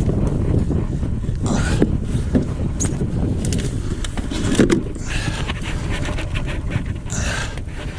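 Wind buffeting the microphone with a steady low rumble, broken by three short rushing noises and a couple of sharp clicks.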